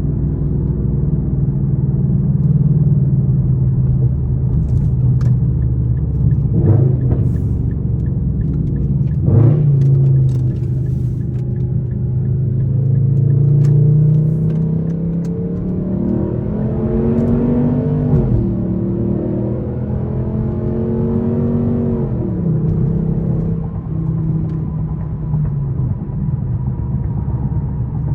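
Straight-piped Infiniti M56's 5.6-litre V8 exhaust droning at a steady cruise, with two short sharp blips in the first third. About halfway through the engine note climbs steadily in pitch under acceleration for several seconds, then falls back to a steady cruise drone.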